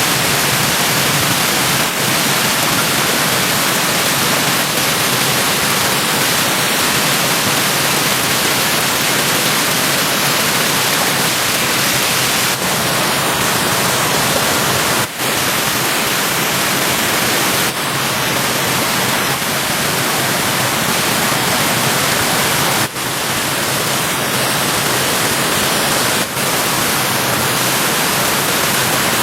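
Steady rushing of a swollen stream's flowing water, an even hiss broken by a few brief dropouts.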